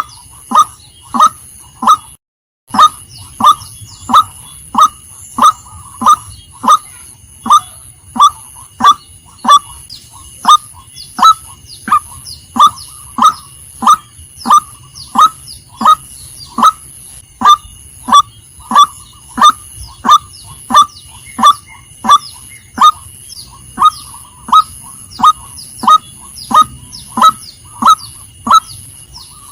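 Female white-breasted waterhen calling: a short, loud, slightly falling note repeated at an even pace of nearly two a second, with a brief break about two seconds in. A faint steady high whine runs underneath.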